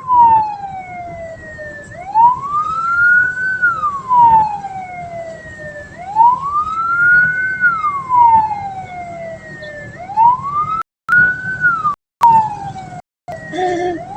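Vehicle siren wailing: a slow rise and longer fall in pitch, repeating about every four seconds, over a low steady hum. The sound drops out briefly three times near the end.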